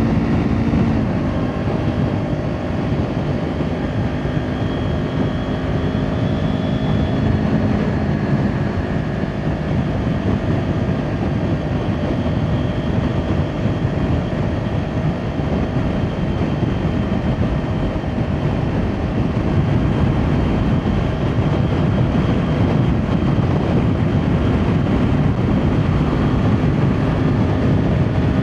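Kawasaki Ninja 400's parallel-twin engine with an Akrapovic exhaust running steadily while under way, mixed with wind rushing over the microphone.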